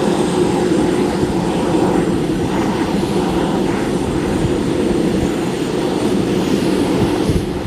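Jet airliner engines running with a steady, loud rumble.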